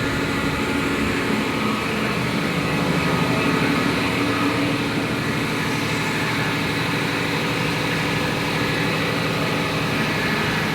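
Steady, loud drone of running machinery in a tugboat's engine room, a continuous mechanical hum with several steady tones and no change in level.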